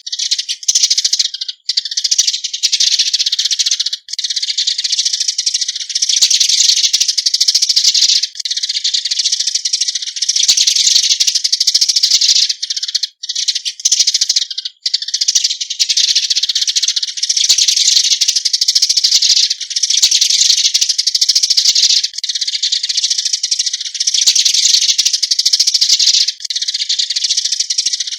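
Eurasian tree sparrows calling as a flock: a loud, fast, unbroken chatter of high chirps with a few momentary breaks.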